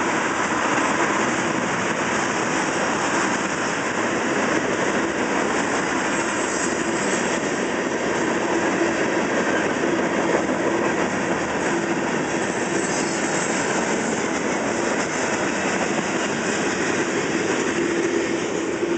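CSX freight train's cars (black tank cars, then coal gondolas) rolling steadily past, their wheels running on the rails with an even, unbroken noise.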